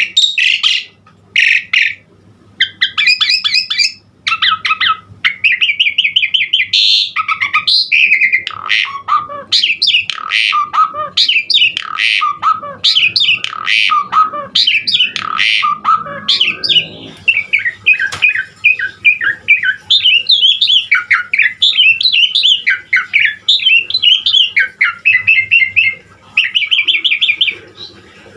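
Asian pied starling (jalak suren) singing nonstop: a long, varied song of quick chattering runs, whistled notes and harsh squawks, broken by a few short pauses.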